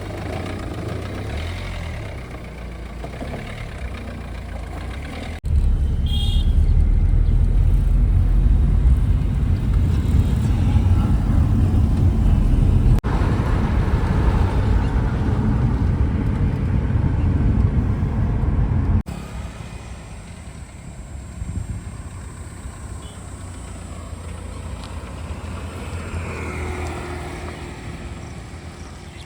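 JCB 3DX backhoe loader's diesel engine running with a heavy low rumble. It becomes abruptly much louder about five seconds in and drops back abruptly a few seconds before the end.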